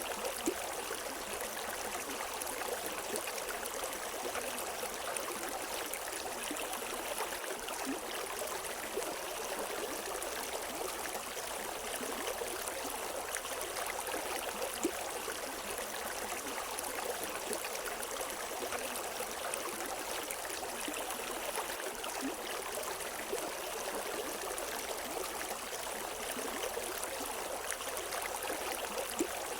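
River water flowing over rocks, a steady rushing with many small splashes and gurgles and no birds.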